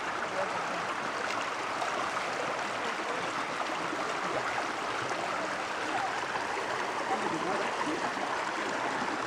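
Forest stream running high after rain, a steady rush of water.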